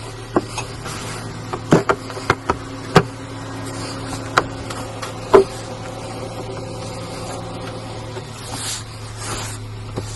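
Car cabin noise while driving: a steady low drone, with several sharp clicks and knocks in the first half and a brief rushing swell near the end.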